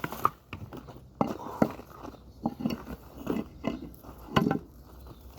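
Dry wood being cut and broken: a series of irregular sharp cracks and splintering crunches, the loudest near the end.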